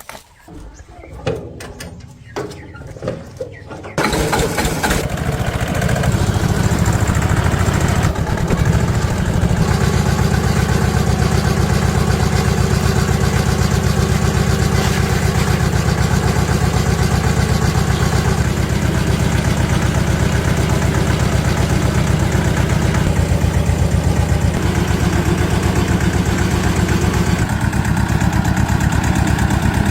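A few faint clicks and knocks, then about four seconds in a small engine comes in abruptly and idles steadily with a fast, even beat.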